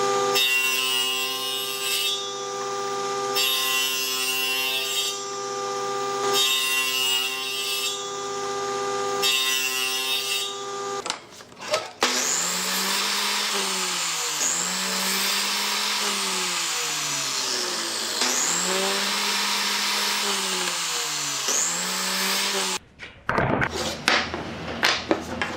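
Power tools working wood. First comes a steady motor hum with a burst of cutting noise about every second and a half. After a brief break, a motor's pitch sags and recovers about every two seconds as it takes repeated strokes.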